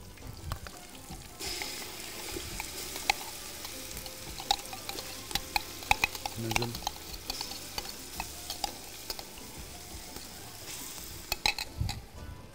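Chopped onion, garlic and peppers sizzling in oil in a large aluminium pot, with sharp metallic taps and knocks as tomato paste is knocked out of a small tin into the pot and stirred in with a spoon. The sizzle comes in about a second and a half in and cuts off shortly before the end, leaving a few knocks.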